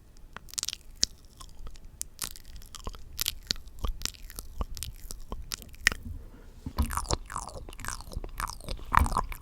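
Close-miked ASMR mouth sounds: wet tongue clicks and lip smacks, spaced out at first, then coming thick and fast and louder about two-thirds of the way in.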